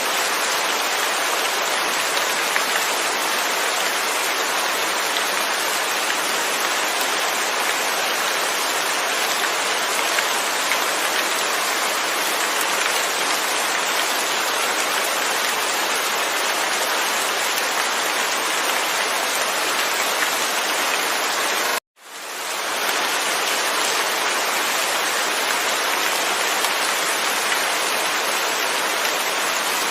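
Steady, even rainfall with no thunder. About three-quarters of the way through, the sound cuts out to silence for an instant and then fades back in, like a splice in a looped recording.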